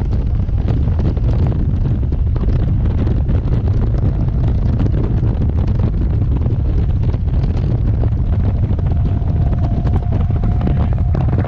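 RER D commuter train running, a steady deep rumble with many small clicks and rattles. A faint steady whine shows up for a couple of seconds near the end.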